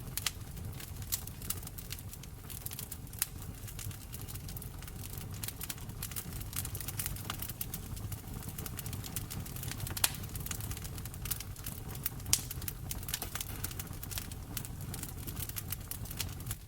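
Wood fire crackling in a fireplace: a steady stream of small pops and snaps over a low rumble, with two sharper pops about ten and twelve seconds in.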